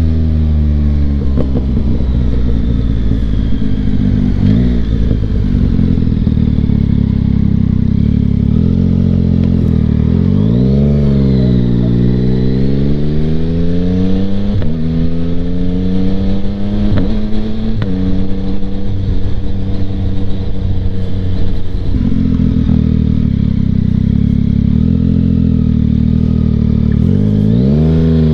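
Engine and Kelpi Flanker aftermarket exhaust of a 2025 Yamaha MT-09 inline-three motorcycle on the move, picked up by a mic inside the rider's helmet. Its pitch holds steady in stretches and steps several times as it shifts gears. About ten seconds in, the engine slows and then pulls back up, and it slows again near the end.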